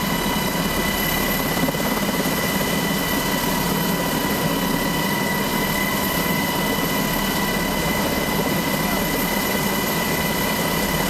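Helicopter turbine engines and rotor running steadily: a constant high whine of several tones over a dense rushing noise.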